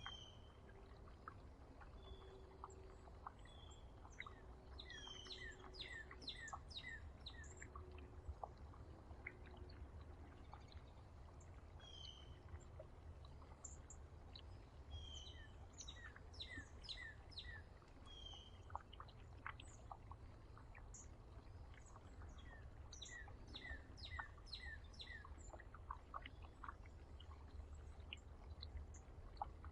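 Small songbirds chirping: many short, quick high chirps and brief whistled notes scattered throughout, over a faint steady low rumble.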